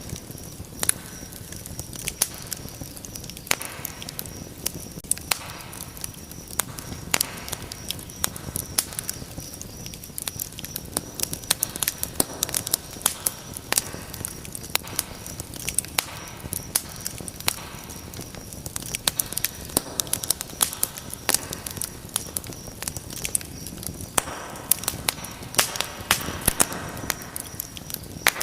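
Wood fire in a fireplace crackling, with frequent irregular sharp pops and snaps over a steady low rush of flame.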